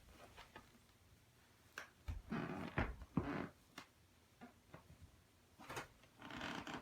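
Quiet handling noises: scattered light taps and clicks with a few brief rustles, the loudest cluster about two to three and a half seconds in and another near the end.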